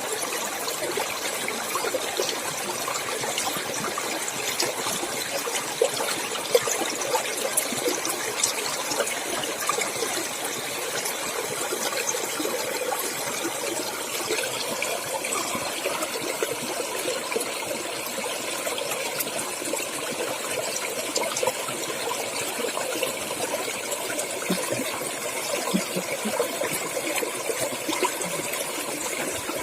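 Clear stream water running and splashing steadily over rocks, with many small trickling splashes.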